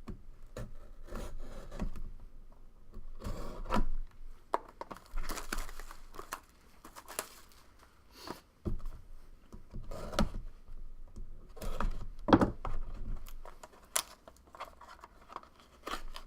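A sealed trading card box being cut open and unwrapped: plastic wrap crinkling and tearing, with cardboard scraping and irregular clicks and handling knocks.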